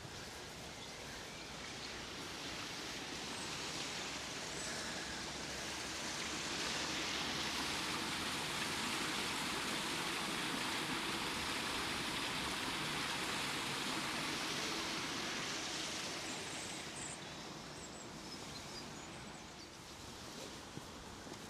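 Rushing water from a weir or waterfall. It grows steadily louder over the first several seconds, holds for a while, then fades away again.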